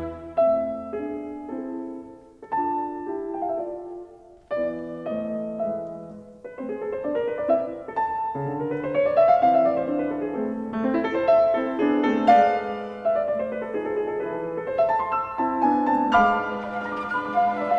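Background music: solo piano, a slow melody that fills out into fuller chords about halfway through, with a louder, fuller passage starting near the end.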